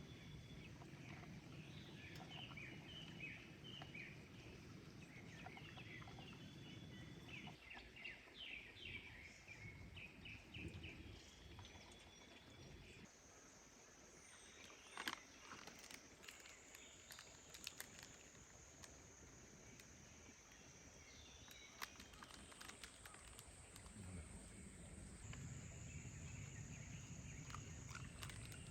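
Faint forest ambience: birds chirping in short repeated calls for the first twelve seconds or so. From about halfway, a steady high-pitched insect drone takes over and shifts pitch a few times.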